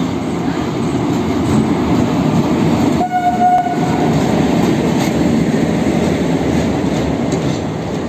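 Indian Railways electric locomotive hauling passenger coaches slowly past, with a steady rumble of wheels on rail. About three seconds in, a short horn blast sounds for under a second.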